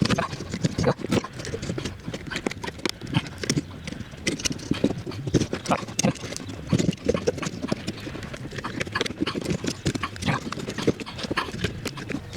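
Irregular run of small clicks and knocks as the metal rail, cables and plastic guides of a car window regulator are handled and fitted by hand.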